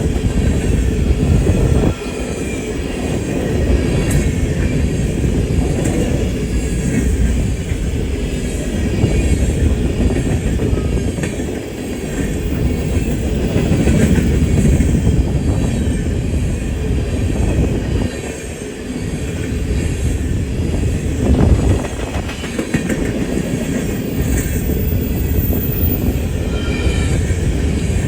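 Loaded coal train rolling past on a curve: a steady, loud rumble of steel wheels on rail, with clacking over the rail joints and wheel squeal.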